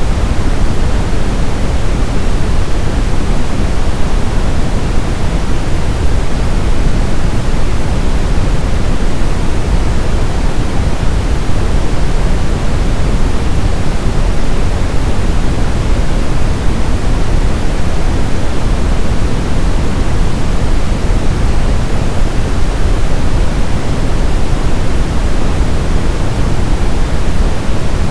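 Steady, loud brown noise: an even, unbroken hiss-like rumble weighted toward the deep end, with no changes or events.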